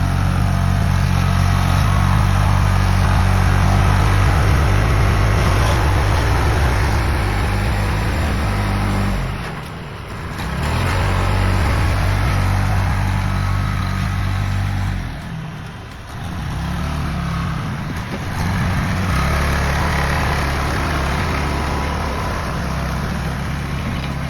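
Vehicle engine running steadily under load, with a hiss over it. It eases off briefly twice, about ten and sixteen seconds in.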